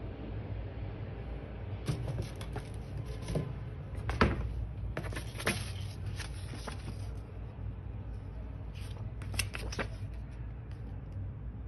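Packaging handled during a sneaker unboxing: scattered rustling of paper or plastic with a few sharp taps and clicks, over a steady low hum.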